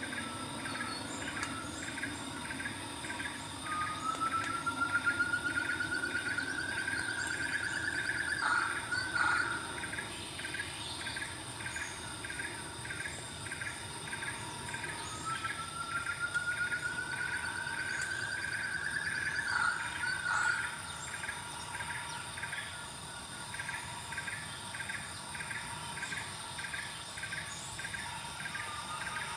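A bird gives two long whistles, each rising slowly in pitch for about four seconds and ending in a quick drop, with a third starting at the very end. Underneath runs an even, rhythmic chirping of insects and a steady high insect hum.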